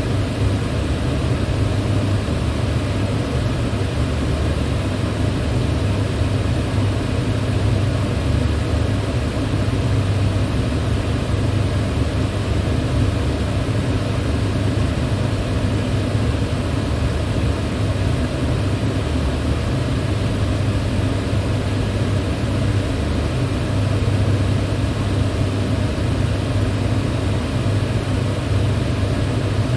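Electric fan running steadily: a constant low hum under an even rush of moving air, with no change in speed.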